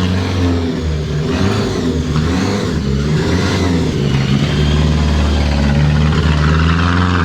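Lancia Delta rally car engine running hard under throttle, its pitch rising and falling over the first few seconds, then holding a steady note.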